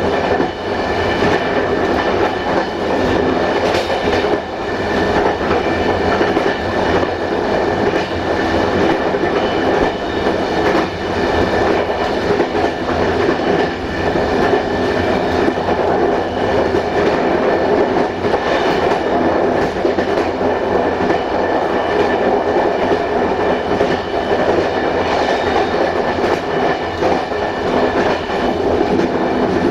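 Passenger train coach rolling along the rails at speed: a steady rumble of wheels on track with a faint steady whine over it, and now and then a click-clack as the wheels cross rail joints.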